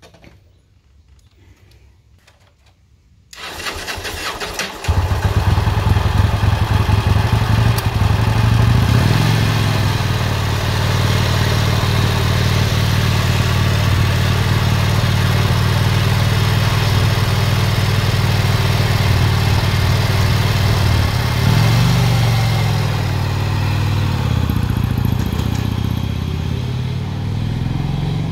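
Vincent Rapide's 998 cc V-twin cold-started with an electric starter: about three seconds in the starter cranks for a second or so, then the engine catches and settles into a steady idle. It revs briefly once, about twenty-two seconds in.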